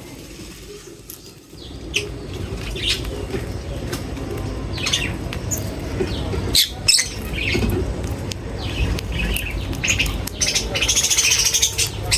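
Small birds chirping, with many short high calls scattered throughout and a dense burst of chattering near the end, over a steady low background noise.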